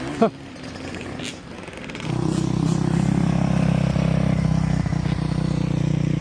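Dirt bike engine running steadily at a constant pitch, starting about two seconds in and holding without revving up or down.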